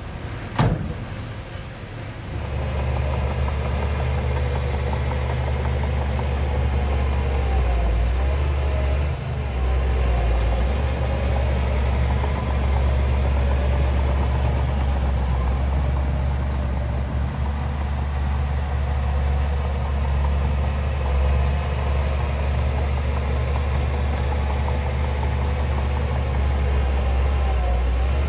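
A sharp knock about half a second in, over a hiss, then from about two seconds in a heavy diesel engine of the earthmoving machinery runs steadily with a deep, even note.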